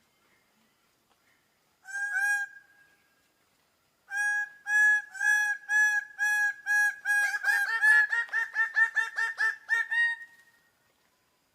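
Bird-of-paradise calling: loud, repeated honking calls. A short burst comes about two seconds in. From about four seconds a long series follows at roughly two calls a second, turning quicker and more clipped about seven seconds in, and it stops near the ten-second mark.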